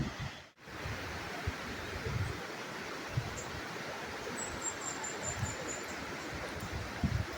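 Waterfall: a steady, even rushing of falling water. It cuts out for a moment about half a second in, with a few low gusts of wind on the microphone.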